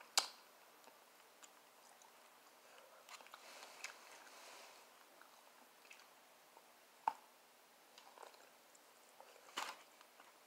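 Close-up eating sounds of fried barbecue ribs being bitten and chewed: quiet chewing with a few sharp crunches and mouth clicks, one right at the start, one about seven seconds in and a short cluster near the end.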